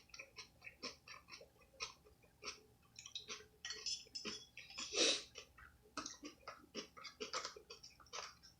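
Close-miked chewing with open-mouth wet smacking, a quick run of short clicks about three to four a second, and a louder burst about five seconds in.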